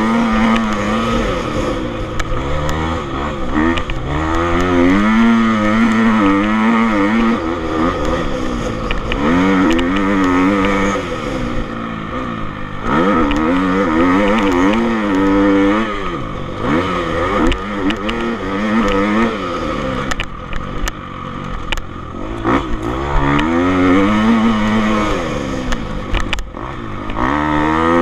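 Motocross bikes' engines revving hard and dropping off again and again, more than one bike at a time, as they ride the track.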